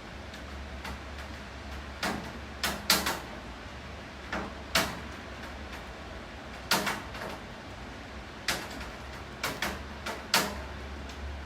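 Steady rain with heavy drops striking a hard surface in about a dozen sharp, irregular taps, some in quick pairs, over a low steady hum.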